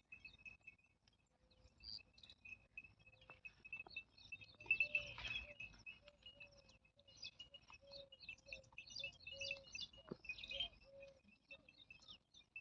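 Faint birdsong: many short high chirps from small birds over a steady, pulsing high insect trill, with a brief louder noise about five seconds in.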